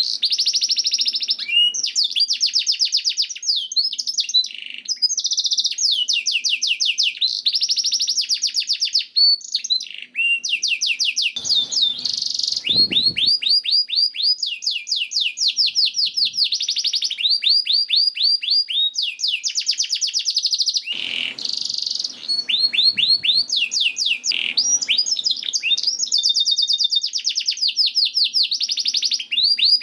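Domestic canary singing a long, continuous song of fast trills: runs of quick, high falling notes repeated many times a second, one run following straight on from the next. Brief low noises break in twice, about twelve and twenty-one seconds in.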